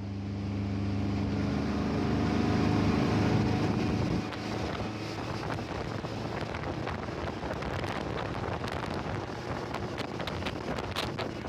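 Motorboat engine running with a steady hum that grows louder over the first few seconds and drops away about four seconds in. After that, wind buffets the microphone along with rushing water noise and scattered clicks.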